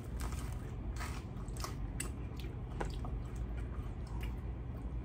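People chewing and biting air-fried rotisserie chicken, with many short, scattered crunches and mouth clicks over a faint low hum.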